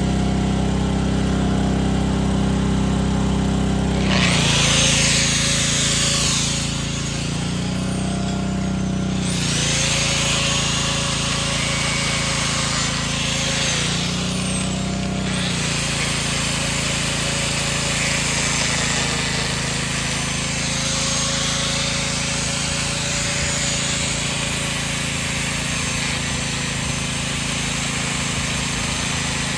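Power tool cutting metal, most likely an angle grinder, starting about four seconds in. Its high whine sags twice as the disc bites, then runs on steadily. A steady motor hum sits underneath, loudest before the tool starts.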